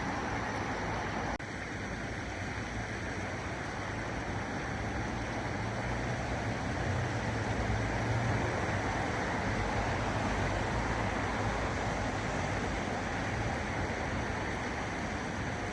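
Steady outdoor rushing noise with a low hum underneath, dipping slightly in level about a second and a half in.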